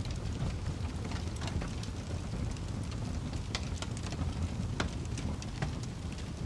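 Wood fire burning in a fireplace, crackling: irregular sharp pops and snaps over a steady low rush of the flames, with two louder snaps about halfway through.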